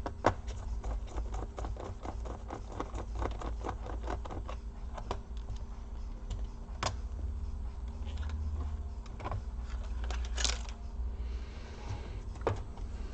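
Small screwdriver backing out the screws that hold a laptop's display hinges: a quick run of little clicks over the first several seconds, then a few separate sharper clicks and a short rasp as the parts are handled.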